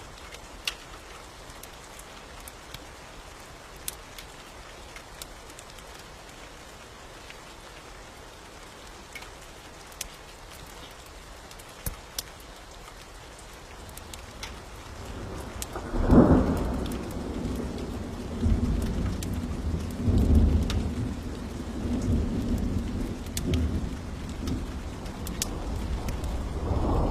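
Steady rain with scattered sharp ticks of drops, then about 16 seconds in a clap of thunder breaks and rolls on in a long, uneven low rumble.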